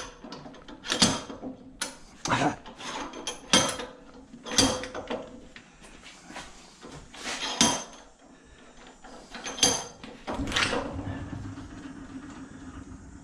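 Small metal scrap and hand tools clinking and knocking while an item is taken apart by hand. There are sharp knocks about once a second, some with a short metallic ring, and from about ten seconds in a longer scraping sound that fades.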